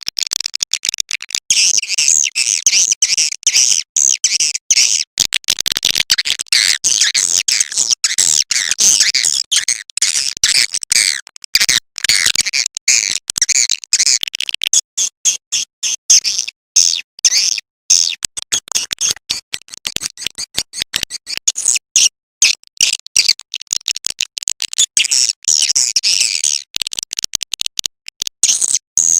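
Recorded edible-nest swiftlet lure call: a dense, high-pitched twittering chatter broken by many short gaps, played to draw swiftlets into a nesting house.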